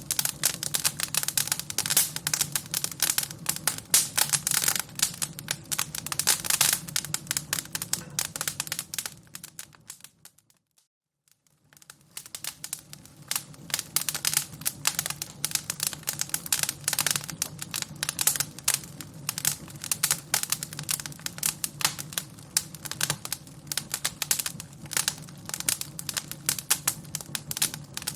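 Wood fire crackling, with dense, quick pops and snaps over a faint low hum. About ten seconds in it fades out to near silence, then fades back in a couple of seconds later.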